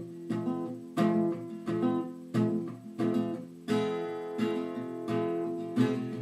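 Acoustic guitar strumming chords with no vocals, in a steady rhythm that gets fuller and busier about halfway through.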